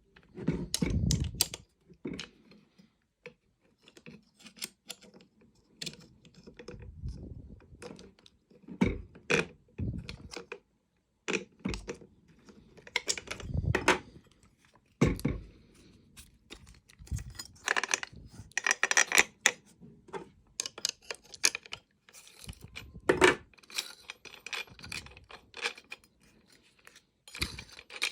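Small metal parts clinking, clicking and knocking irregularly as an adjustable angle-grinder spanner is handled and worked.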